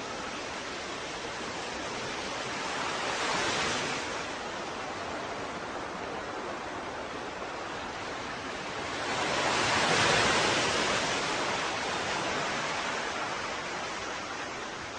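Ocean waves washing in with a steady hiss of surf, two waves swelling and breaking, the second louder, about ten seconds in, then easing off.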